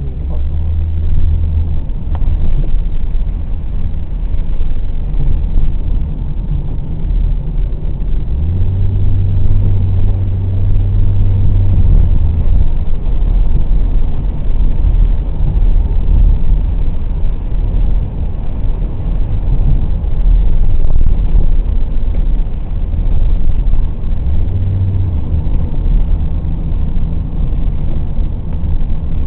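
Car driving: the engine runs with its pitch holding steady for a few seconds at a time, over a heavy, constant low rumble of road and wind noise.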